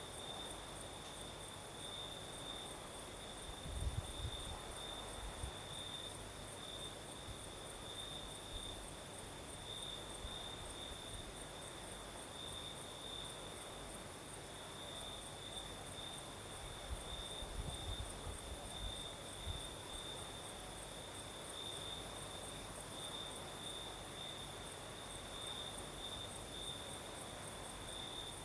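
Crickets chirping in a steady, pulsing trill, with a second, higher insect trill above it. Twice, about four seconds in and again past halfway, a low gust of breeze rumbles on the microphone.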